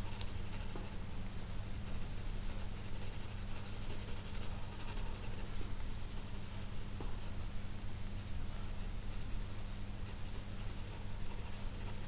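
Pencil scratching on paper in quick shading strokes that come and go with short pauses, filling in a dark patch of an animal sketch.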